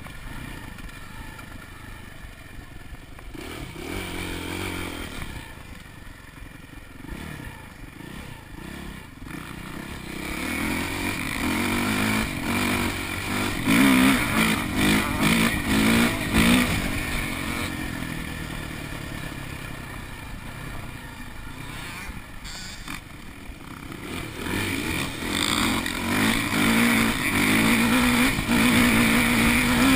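Four-stroke single-cylinder dirt bike engines revving up and down as the bikes ride around. They get loud about halfway through, fade, then build again toward the end as a bike comes closer.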